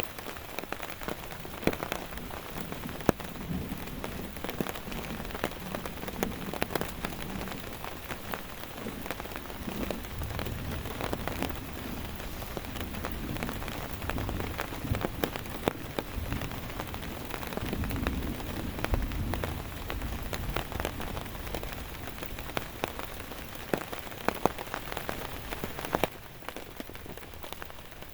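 Heavy rain falling steadily, with many sharp drops ticking on a surface close by. A low rumble swells in the middle and fades again, and the rain gets a little quieter near the end.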